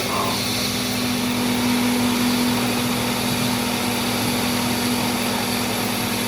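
A workshop machine's motor running steadily, with a constant low hum under an even mechanical noise.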